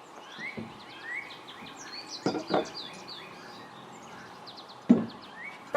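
Small birds chirping over and over in short rising notes, with a few sharp knocks, two close together about halfway through and one near the end.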